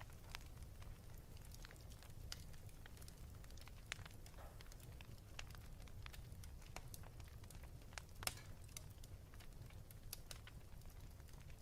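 Wood fire crackling in a fireplace: scattered small snaps and pops over a low rumble, with one sharper pop about eight seconds in.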